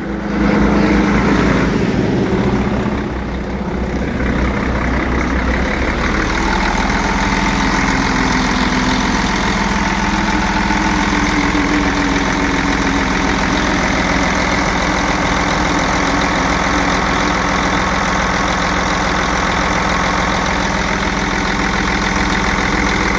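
Sterling truck's Mercedes diesel engine idling after sitting for a while, running clean with no odd noise. Its sound shifts a little in the first few seconds, then holds steady.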